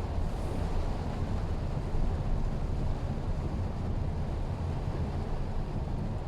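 Steady low rumble of a Mitsubishi Xpander being driven, its 1.5-litre four-cylinder engine and tyre and road noise, heard from inside the car.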